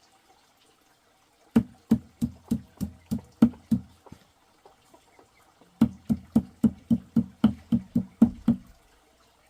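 A knife chopping on a wooden cutting board in two runs of steady strokes. The first run has about eight strokes at roughly three a second; after a short pause comes a second run of about eleven slightly quicker strokes.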